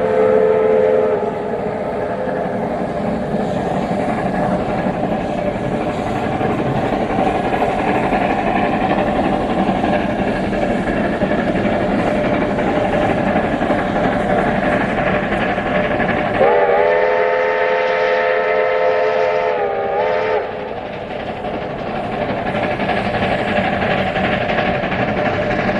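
BDZ class 01.00 steam locomotive 01.23, built in 1935 by SLM Winterthur, running past with its train, a steady dense running noise throughout. A whistle fades out about a second in. Near the end a long chime-like whistle of several tones sounds for about four seconds, sliding up as it starts and dipping as it stops.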